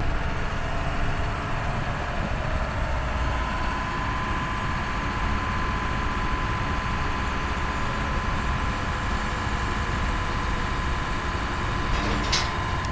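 Pickup truck driving down the road: a steady rush of road and engine noise with a faint, steady whine running underneath.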